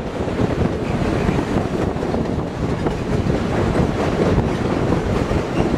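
Wind rushing over the microphone and the steady rumble of a passenger train's wheels on the rails as it runs onto a steel truss bridge.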